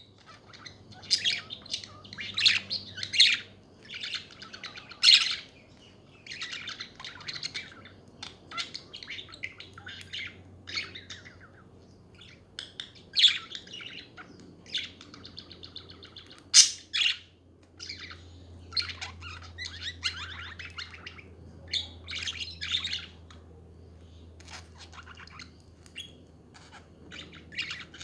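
Pet budgerigars chattering and warbling: a busy, irregular run of chirps, squeaks and short sharp calls.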